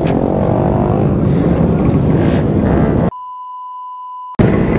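Loud, dense riding noise from a Yamaha RX-King two-stroke motorcycle, cut off about three seconds in by a steady electronic beep tone lasting just over a second, after which the riding noise returns.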